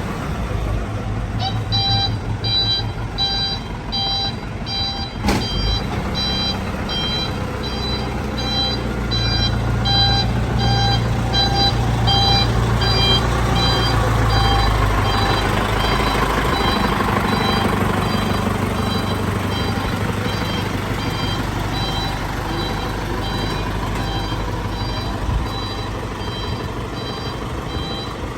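A vehicle engine running while its reversing warning beeps rapidly, about three beeps a second. A single sharp click comes about five seconds in.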